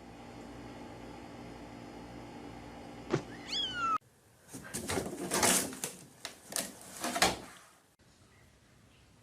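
Cat vocalising: a click, then a short falling meow about three seconds in. After a cut, a run of several loud, rough cat cries follows.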